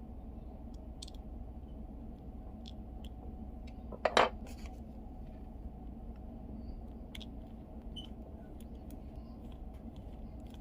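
Small plastic parts being handled during a teardown: scattered faint ticks and one short, louder clatter of clicks about four seconds in, over a steady low hum of room noise.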